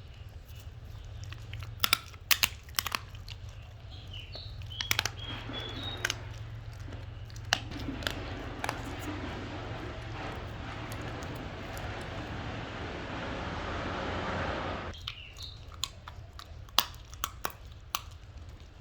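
German Shepherd crunching and chewing cooked chicken, with sharp cracking bites in bursts. A steady hiss builds through the middle and stops suddenly about fifteen seconds in, over a low constant hum.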